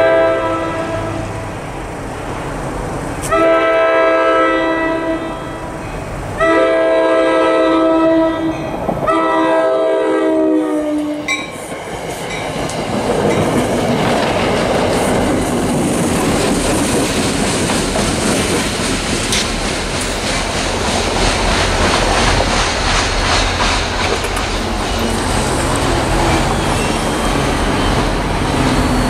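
NJ Transit diesel commuter train sounding four long blasts on its chord air horn, the last one dropping in pitch as it goes by. Then the train passes close, with the steady rush and clatter of wheels over the rail joints.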